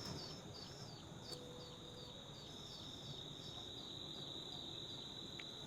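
Faint insects calling: a steady, high-pitched trill, with a short chirp repeated about three times a second over it, fading out about two-thirds of the way through.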